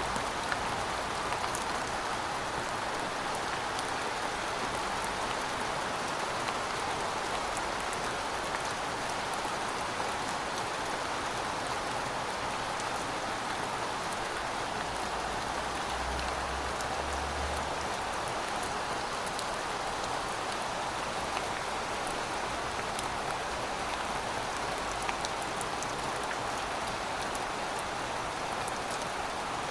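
Steady heavy rain falling and pattering on surfaces, with scattered sharp drop ticks and a faint low rumble around the middle.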